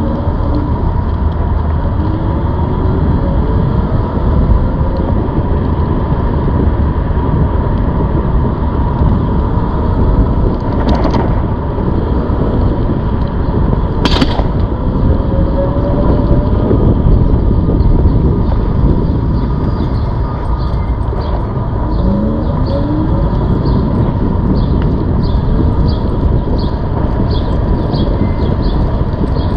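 Wind rushing over the microphone while riding a ZOOZ electric bike, with a steady high whine running through it and several short rising whines as the bike speeds up. There are two sharp clicks in the middle and light, even ticking near the end.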